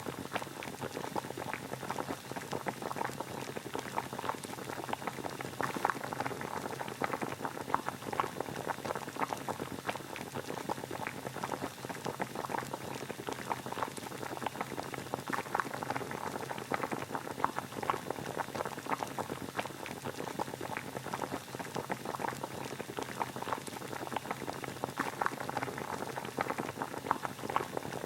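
Water boiling steadily: a continuous dense bubbling and crackling of many small bursting bubbles.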